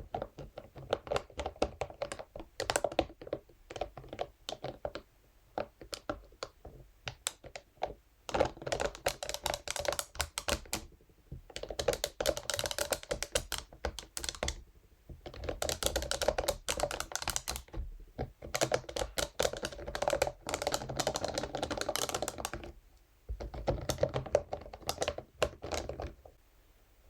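Scalp massage brush used for close-up ASMR sounds: a rapid, irregular patter of light taps for the first several seconds. Then come stretches of scratching a few seconds long, separated by short pauses.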